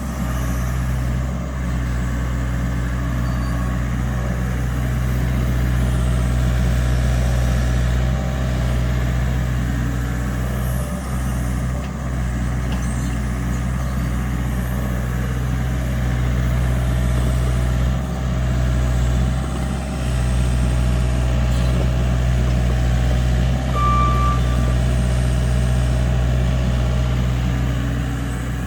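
LiuGong mini excavator's diesel engine running steadily, with brief dips in level every few seconds as it works. A short high tone sounds once near the end.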